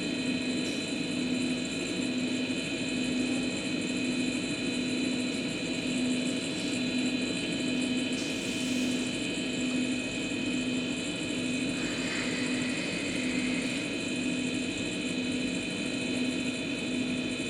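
Steady drone of a news helicopter's cabin, heard through the aerial reporter's open microphone, with a low hum that pulses slowly and evenly and a few steady high whines above it.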